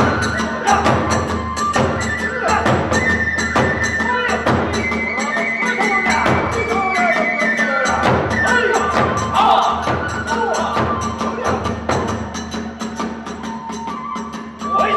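Hiroshima kagura ensemble playing its accompaniment: drum beats and small hand cymbals in a quick, driving rhythm, with a bamboo flute melody held above them.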